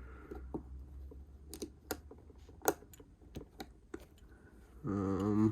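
Plastic Lego bricks clicking and tapping as pieces are handled and pressed into place: a scattering of separate sharp clicks, the loudest about two-thirds of the way through.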